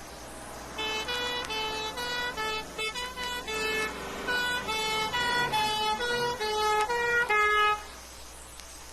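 British emergency-vehicle 'two-tone' horn, alternating quickly between two notes for about seven seconds, then cutting off suddenly.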